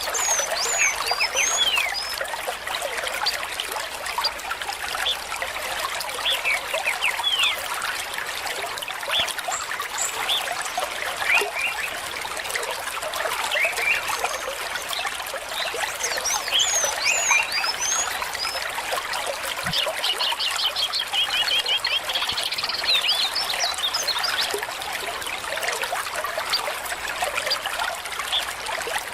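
Stream water trickling and splashing steadily, with birds chirping over it in short, scattered calls and one rapid trill of repeated notes about two-thirds of the way through.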